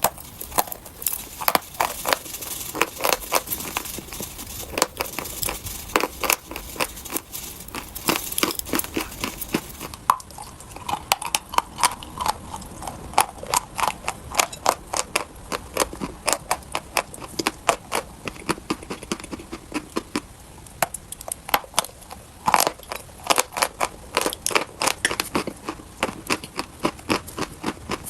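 Close-up chewing of dry chalk: a steady stream of crisp, sharp crunches, several a second.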